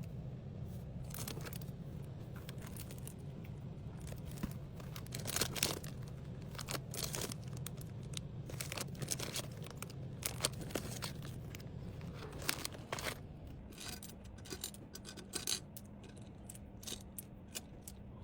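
Small packaging and stationery items being handled and packed: scattered light clicks, knocks and plastic rustles, over a steady low hum.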